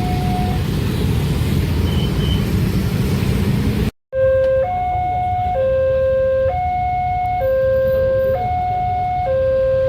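Railway level-crossing warning alarm sounding a two-tone signal, alternating between a lower and a higher tone about once a second. For the first four seconds a loud low rumble covers it; after a cut about four seconds in, the alarm sounds clearly on its own.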